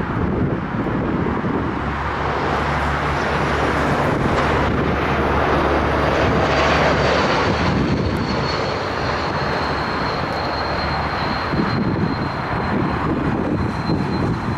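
Jet airliner passing low on its landing approach: a rushing engine roar that swells to its loudest about six to seven seconds in, with a thin high whine that sinks slightly in pitch as it goes by.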